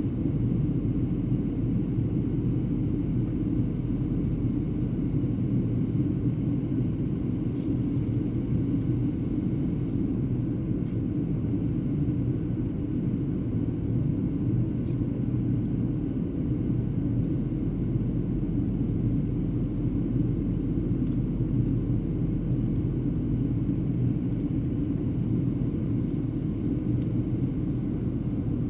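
Airliner cabin noise in flight: a steady, even drone of engines and airflow, heaviest in the low range, with a constant low hum.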